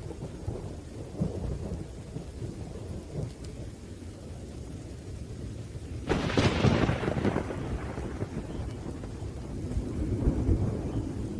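Thunderstorm: a steady rain hiss under low, rolling thunder. A sharp thunderclap breaks about six seconds in and fades over a couple of seconds, and the rumble swells again near the end.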